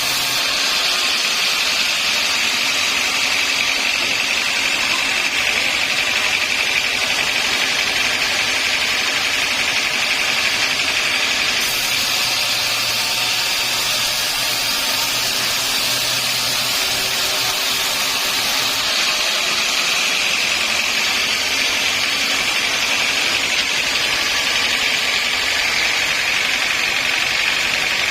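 Sawmill machinery running steadily with a constant high whine, consistent with a log saw at work.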